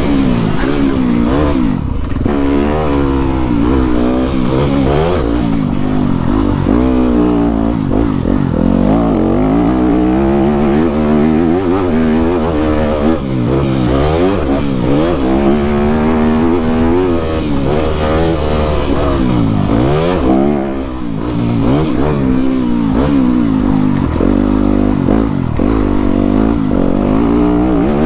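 Dirt bike engine ridden hard around a motocross track, revving up and down over and over as the throttle opens and closes through the gears. It briefly drops off about two-thirds of the way through before picking up again.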